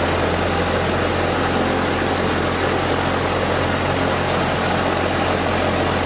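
Cessna 172's piston engine and propeller running steadily at low, idle-like power, heard from inside the cabin.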